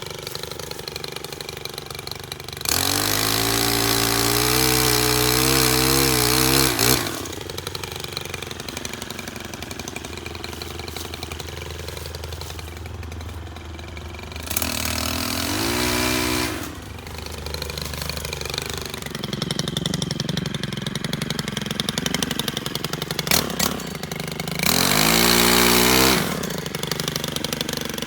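STIHL KM 131R 4-MIX power head running a pole saw. It idles and is throttled up three times, a few seconds each, near the start, in the middle and near the end.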